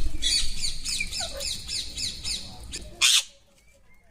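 Parrots squawking in a squabble: rapid, repeated harsh calls, several a second. About three seconds in comes a short loud burst, after which the calls stop.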